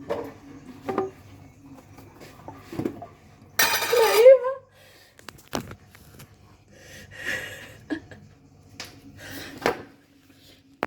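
Kitchen utensils and bowls clinking and knocking as baking ingredients are handled, with a short vocal cry of wavering pitch about four seconds in, the loudest sound.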